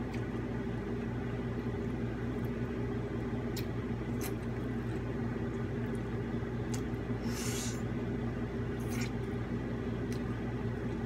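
Chewing and mouth sounds of someone eating rotisserie chicken: a few scattered soft clicks and smacks, one a little longer about halfway through, over a steady low hum.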